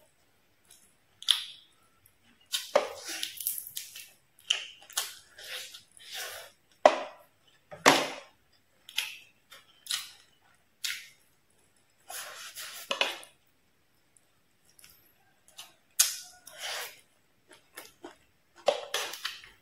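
Close-miked chewing of crispy fried fish and rice: irregular crunches and crackles in short bursts, with brief silent gaps between bites.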